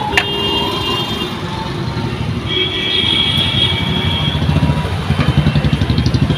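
Roadside traffic with a motor vehicle engine running close by, its low rapid pulsing growing stronger near the end. A high steady tone sounds for a couple of seconds midway.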